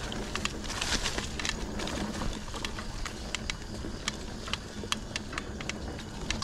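Mountain bike rolling over a rough dirt trail: a steady low tyre and wind rumble with many irregular clicks and rattles from the bike.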